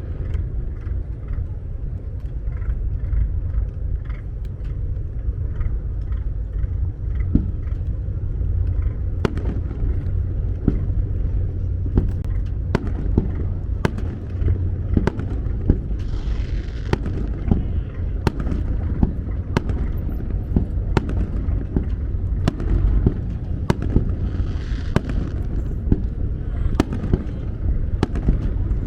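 Fireworks display over the water: a steady low rumble of booms with many sharp bangs, coming thick and fast from about nine seconds in, and two short spells of fizzing crackle.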